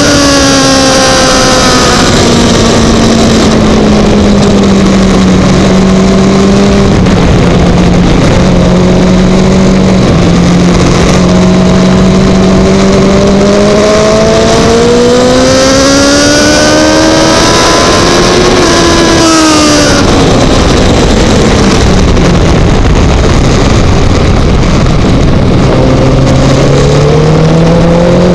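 Racing motorcycle engine heard from an onboard camera, very loud over a heavy rush of wind on the microphone. The engine note slowly sags and climbs again, drops sharply about twenty seconds in as the throttle comes off, runs low for several seconds, then climbs again near the end.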